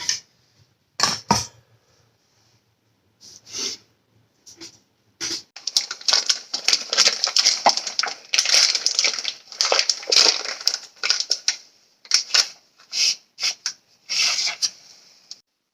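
Small steel pieces clinking and scraping in irregular bursts of hand metalwork, with a long stretch of continuous rasping scraping in the middle.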